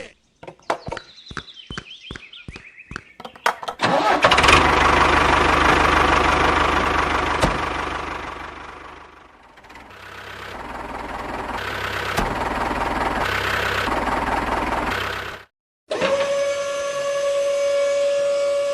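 A series of clicks, then a motor or engine running with a noisy sound that rises and falls, followed by a steady whine near the end.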